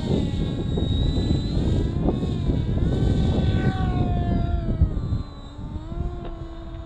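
Electric motor and propeller of an RC airplane whining, its pitch rising and falling with the throttle, over heavy wind rumble on the microphone that eases about five seconds in.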